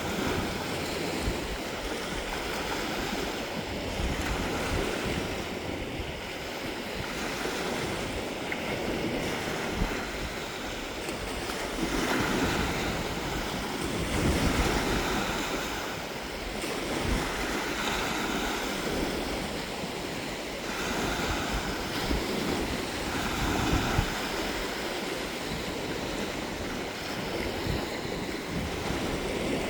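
Gentle waves washing onto a sandy beach, swelling and easing every few seconds, with wind buffeting the microphone.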